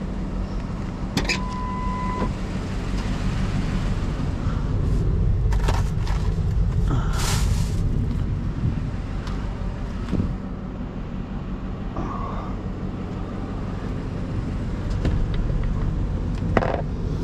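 Steady low rumble of a vehicle engine running, with scattered knocks and rattles and a short beep about a second in.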